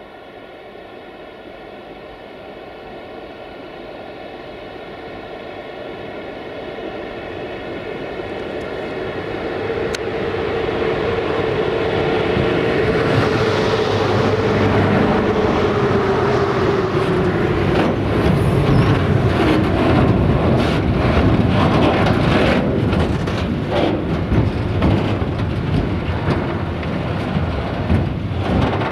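Heavy freight train hauled by two 060-EA electric locomotives, approaching and passing. The sound grows steadily louder, and a tone dips in pitch as the locomotives go by about half-way through. Then the wagons rumble past with rapid clicks from the wheels.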